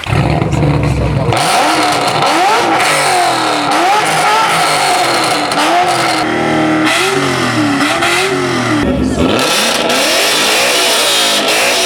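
A Mustang's engine free-revving hard while parked, blipped up and down over and over for about ten seconds and then cut off.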